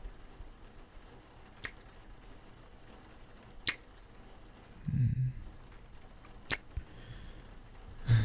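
Close-miked kissing: a few sharp, wet lip smacks spaced a couple of seconds apart, with a short low murmur from a man's voice about five seconds in.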